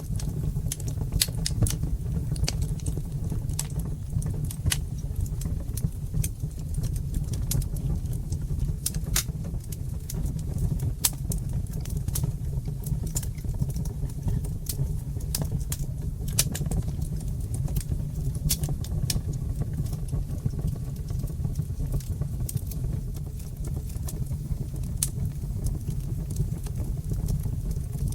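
Wood fire burning in a fireplace, crackling: frequent sharp, irregular pops and snaps over a steady low rumble of the flames.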